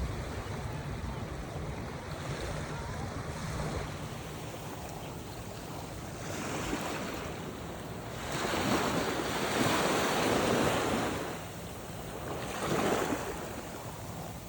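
Ocean surf washing onto the beach, the noise of the breaking waves swelling and ebbing, loudest from about 8 to 11 seconds in, over a steady low rumble of wind on the microphone.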